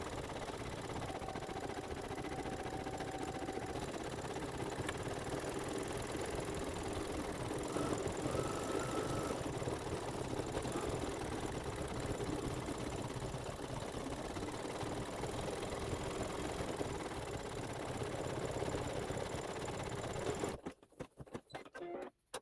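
Embroidery machine running steadily as it stitches out a design, then stopping abruptly near the end.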